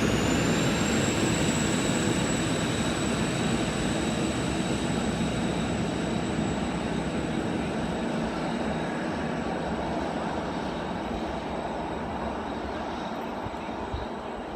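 Endeavour diesel railcar set pulling away: engine noise with a high whine that rises in pitch about a second in and then holds steady, the whole sound slowly fading as the train draws off.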